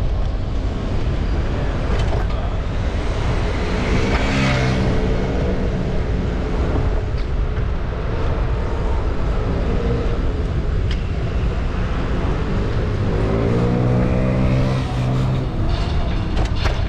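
City street traffic: a steady low rumble with motor vehicles passing, one about four seconds in and a louder one near the end, each engine's pitch rising then falling as it goes by.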